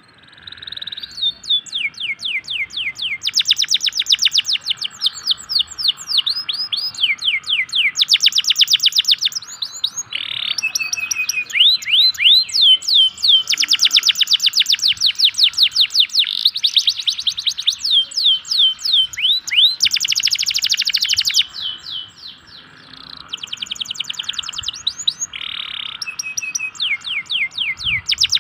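Local canary singing a long, continuous song. Runs of quick notes each slide down in pitch, alternating with very fast trills, with a brief lull about three quarters of the way through.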